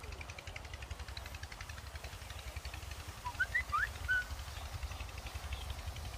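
A bird gives a few short chirps about three to four seconds in, over a steady low rumble.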